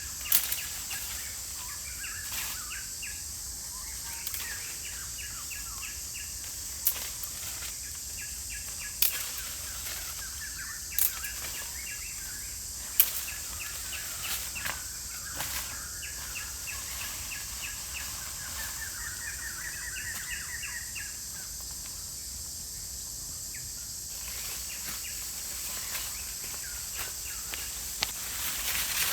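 Forest ambience: birds chirping and trilling over a steady high insect hiss. It is broken by sharp knocks, several about two seconds apart in the first half and one more near the end.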